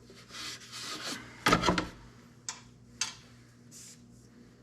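Hand-wiping and rubbing over tractor engine parts and hoses in short strokes, with a louder knock about a second and a half in and two sharp clicks half a second apart a little later.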